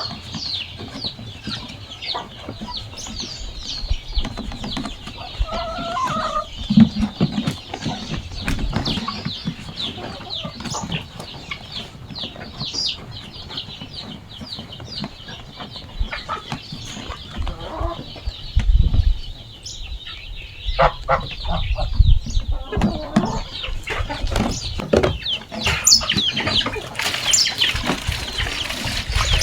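Chickens clucking and calling, with many short high chirps throughout and a few low knocks.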